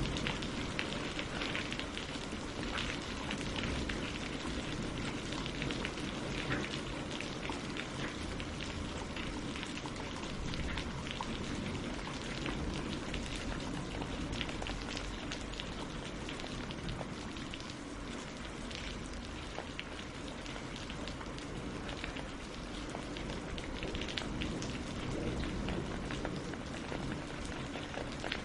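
Steady rain falling on leaves and lake water, a continuous hiss scattered with many small drop ticks.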